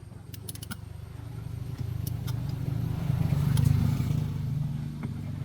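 A vehicle engine running with a low pulsing rumble; it swells louder to a peak about three and a half seconds in and eases back, with a few light clicks over it.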